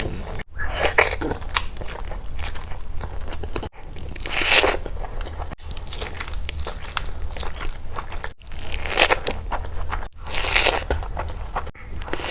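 A person biting and chewing crunchy food up close, in short clips joined by abrupt cuts every few seconds.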